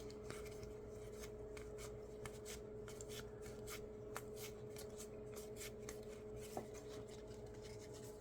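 Faint rubbing and many soft clicks of 2025-26 Topps Basketball trading cards being slid one by one off a stack in the hands, over a steady faint hum.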